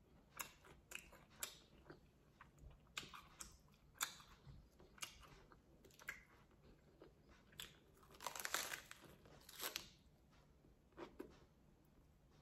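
A person chewing a mouthful of lettuce-wrapped meat taco: faint, irregular crunches of chewing, with a denser run of louder ones about eight to ten seconds in.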